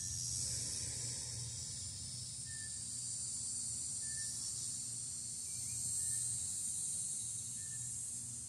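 A steady high drone of insects, with a small bird giving a short single chirp every second and a half to two seconds.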